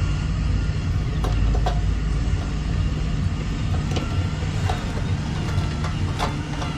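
A radio-controlled construction model's motor running steadily, with scattered clicks and knocks over it.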